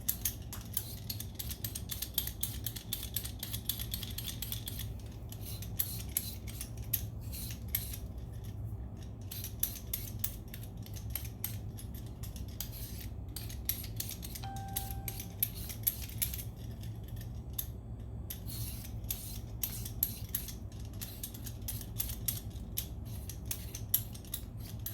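Vegetables being cut into small pieces by hand: a steady run of quick, irregular crisp clicks and snips, over a low steady hum.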